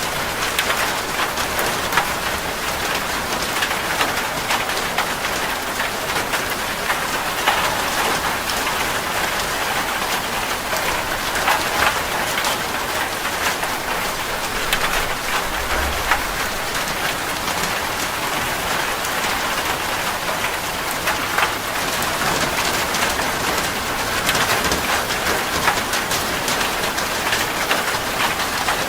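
Steady rain falling and pattering on a surface, with many close drop impacts.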